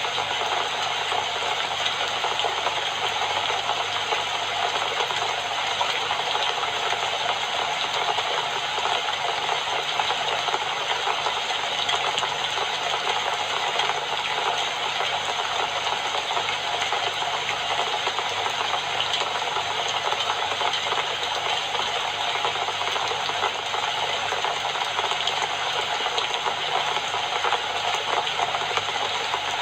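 Steady rain falling, a dense, even patter that keeps up without a break.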